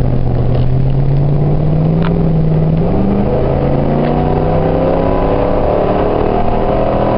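2004 Ford F-150's 4.6 L V8 exhaling through a Thrush turbo muffler, accelerating hard from a standstill, heard from inside the cab with the rear window open. The engine note climbs steadily, drops at an upshift about three seconds in, then climbs again.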